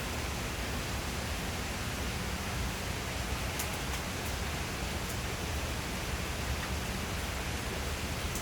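Steady rain falling, an even hiss with a few faint sharp drip ticks here and there.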